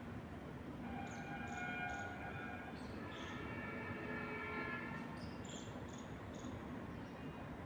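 Small birds chirping in short high calls over a steady rush of wind in trees. Twice, about a second in and again from about three to five seconds, a faint held tone with several pitches at once sounds under them.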